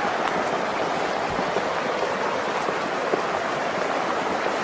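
Steady rushing of flash floodwater.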